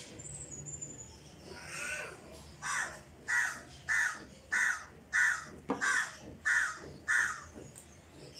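A bird calling, a run of about eight short, evenly spaced calls, well above the quiet background.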